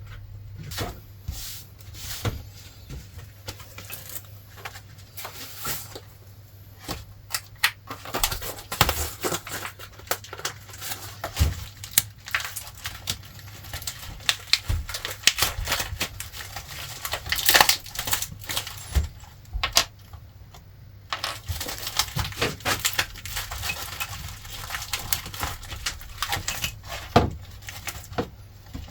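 Small metal parts clicking and clinking at an irregular pace, with some rustling, as a new air-cooled VW rocker arm assembly is put together by hand. A steady low hum runs underneath.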